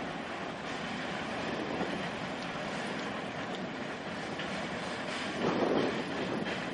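Freight train boxcars rolling steadily past, a continuous rumble of steel wheels on the rails. About five and a half seconds in there is a brief louder surge.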